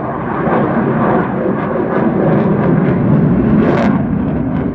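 Aircraft engine noise at an air show: a loud, steady roar of a plane flying past, with a brief sharper hiss about three-quarters of the way through.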